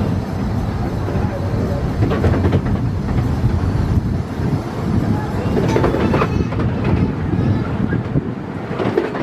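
Miniature-railway train running along the track, heard from on board: a steady rumble with the wheels clicking over the rail joints.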